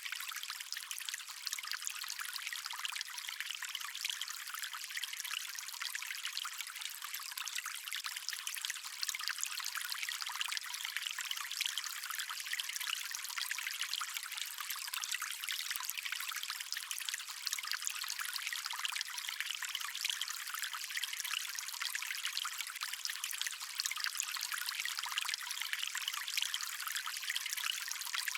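Stream water running and trickling steadily, a thin, high splashing hiss with no low rumble.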